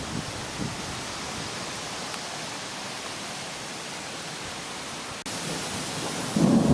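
Steady rushing of gusty storm wind, with no rain falling. About five seconds in there is a brief break, after which the hiss is brighter.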